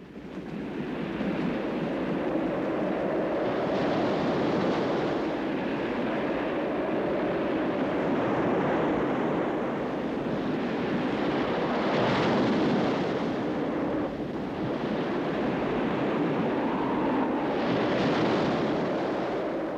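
Storm wind of nearly hurricane force, about 50 knots, and heavy seas: a continuous rushing noise that swells and eases in gusts, with three louder surges.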